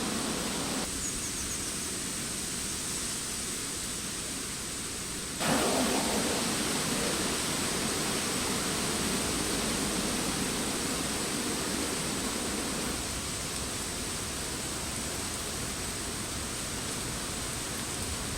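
Steady rustle of wind through tree foliage, with no clear events; it steps up in loudness about five seconds in.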